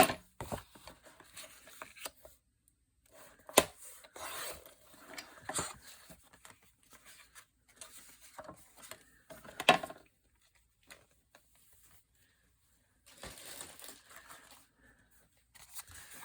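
Paper being cut and handled: soft rustling and sliding of paper with a few sharp snaps, at the start, about three and a half seconds in and near ten seconds in, and a quiet pause after the last.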